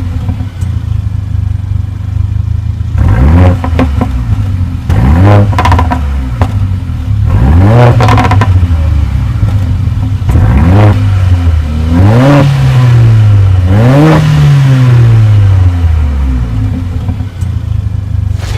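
Mercedes-AMG 2.0-litre turbocharged four-cylinder engine of a GLA 45 AMG idling, then blipped several times in quick free revs, each rise falling back to idle, the last two held a little longer.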